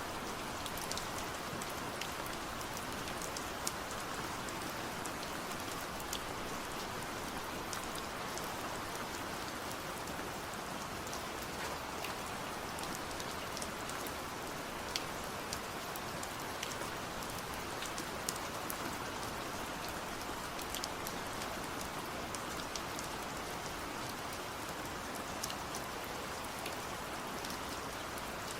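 Steady rain falling, with many scattered single drops ticking sharply on a surface close by.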